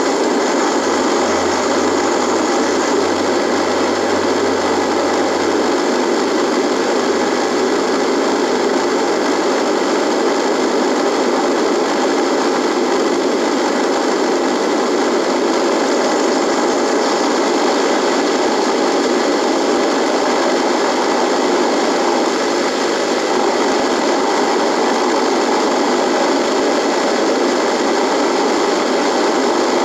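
Radio receiver putting out a steady buzzing static between stations, with faint steady tones in the noise and a low hum over the first several seconds.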